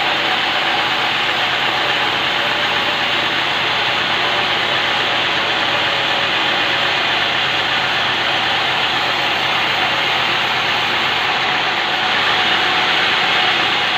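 Band sawmill blade cutting through old jackfruit wood: a steady, loud hiss of the saw in the log, a little louder about twelve seconds in.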